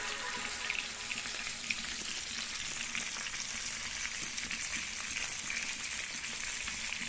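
Food frying in a pan: a steady sizzle with many small crackles.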